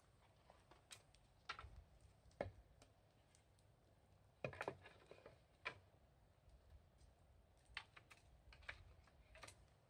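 Wood fire crackling quietly, with irregular sharp pops and snaps.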